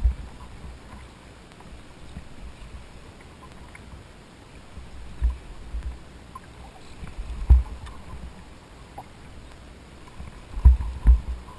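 A kayak on open water: a steady hiss with occasional short, deep thumps against the boat, two of them close together near the end.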